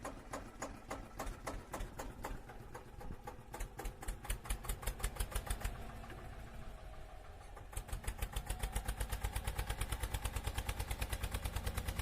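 A small motor running with a rapid, even ticking rhythm, about five or six ticks a second, fainter in the middle and louder for the last few seconds.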